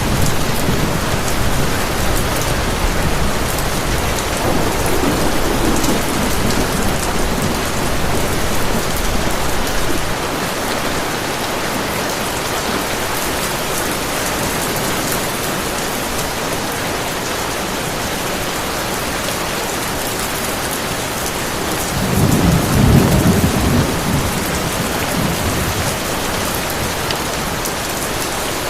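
Heavy rain falling steadily, with rolling thunder: a low rumble through the first ten seconds and a louder roll of thunder about 22 seconds in.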